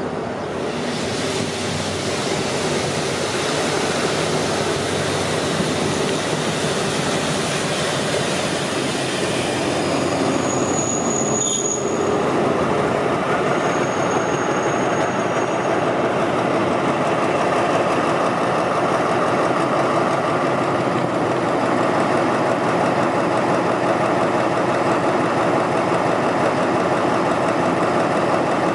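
A train running through the station, a loud steady rumble of wheels on rails that builds over the first few seconds, with brief high-pitched wheel squeals about ten seconds in and again a few seconds later.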